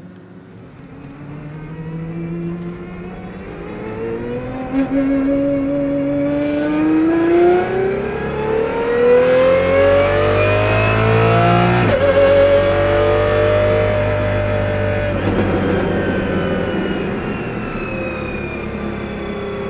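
De Tomaso P72 prototype's 6.3-litre naturally aspirated V12 under acceleration. Its note climbs steadily for several seconds, breaks sharply about twelve seconds in, holds high briefly, then falls away toward the end.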